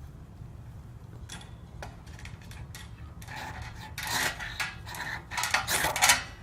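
Irregular scraping and rustling of wood being handled for a campfire, coming in bursts from about three seconds in, over a low steady rumble.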